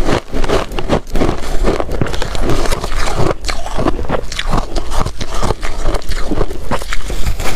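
Shaved ice being bitten and chewed: loud, dense, continuous crunching.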